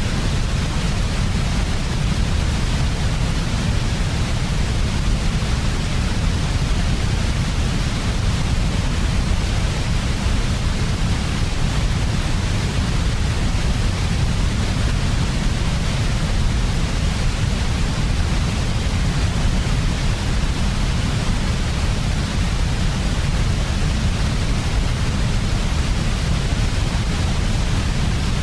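Continuous synthetic white noise for infant sleep: a steady, unchanging hiss with a strong low rumble underneath.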